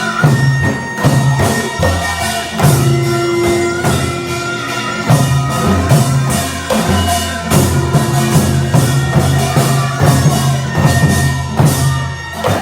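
Korean traditional folk music accompanying a deotbaegi dance: a steady beat of gongs and drums, with held notes that bend in pitch over it.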